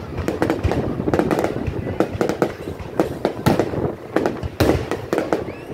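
Aerial firework shells bursting in quick succession: a rapid, uneven run of sharp bangs, several a second, over a steady crackle.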